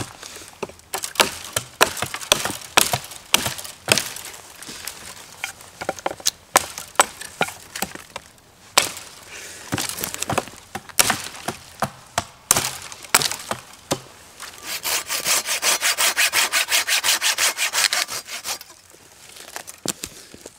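Dry wooden branches being worked for tent poles: a long run of irregular sharp cracks and snaps of wood breaking. Then, from about three-quarters of the way in, a hand saw cuts through a branch for about four seconds in quick, even strokes, five or six a second.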